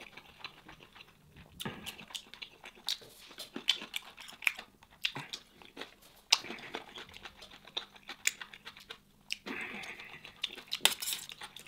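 Close-miked chewing of a mouthful of spiced rice and lamb, with scattered small mouth clicks. Near the end a metal spoon scoops from the steel tray.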